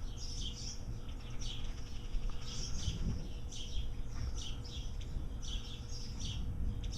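Small birds chirping, short high notes repeating a couple of times a second, over a steady low rumble.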